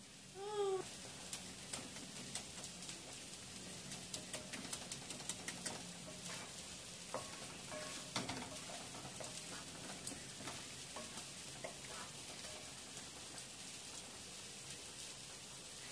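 Chicken pieces sizzling in oil and spice masala in a pan while a wooden spatula stirs them, tapping and scraping against the pan with a quick run of clicks about four to six seconds in. A short high squeak about half a second in is the loudest sound.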